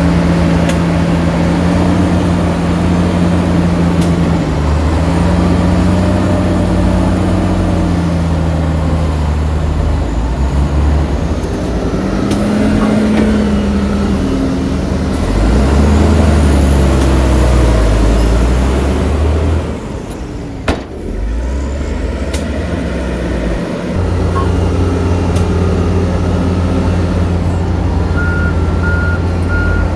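Heavy diesel engines of earthmoving machinery running loud and steady, revving up and down in the middle. There is a single sharp click about two-thirds of the way through, and a reversing alarm starts beeping near the end.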